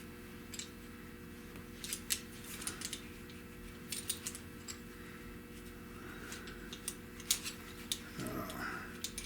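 Scattered light metallic clicks and clinks of locking pliers (vise grips) being handled and clamped onto a sheet-metal patch piece.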